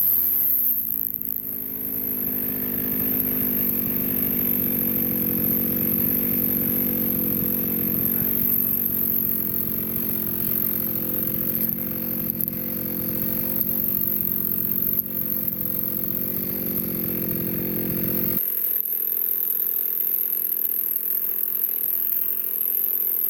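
Chainsaw cutting through a log. Its engine note drops as the chain bites into the wood, then holds steady under load with slight wavering. About eighteen seconds in, the low engine note cuts off abruptly.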